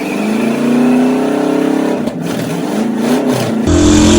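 Chevy 305 small-block V8 revving hard in a burnout, its pitch climbing and sagging and getting louder near the end. It sounds weak because it has no fuel pump and is running only on the fuel left in the carburettor float bowls.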